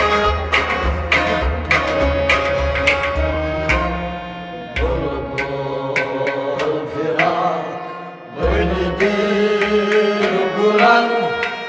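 Instrumental interlude of a Kashmiri folk song: hand drums beating a steady rhythm under a sustained melody instrument, with no voice. The drumming drops out briefly about four and a half and eight seconds in.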